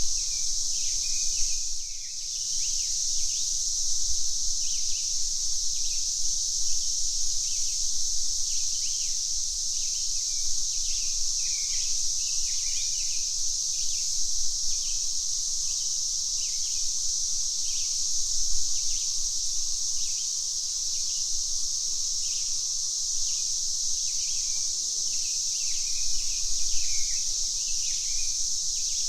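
A chorus of cicadas keeps up a steady high buzz, which dips briefly about two seconds in. Birds chirp in short calls throughout.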